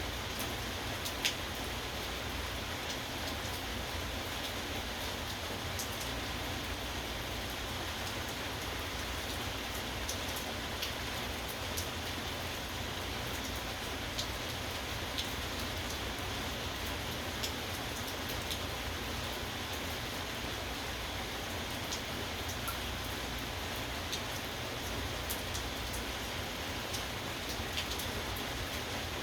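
Steady rain falling, with scattered sharper drop impacts ticking through it; one is noticeably louder about a second in.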